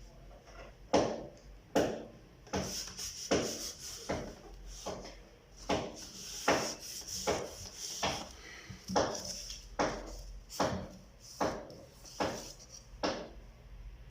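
A hand tool working wood in steady, evenly spaced strokes, about one every 0.8 seconds, each stroke starting sharply and then scraping off.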